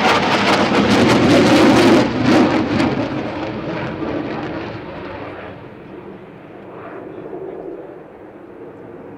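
Panavia Tornado IDS jet with its two RB199 turbofans making a high-speed low pass at about 600 knots: loud with a crackle as it goes by in the first couple of seconds, then fading away to a distant rumble.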